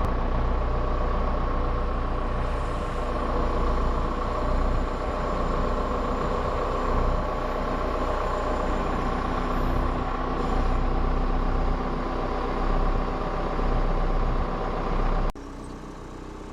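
Heavy diesel engine running steadily under load, with a steady whine over a low rumble; it cuts off suddenly near the end.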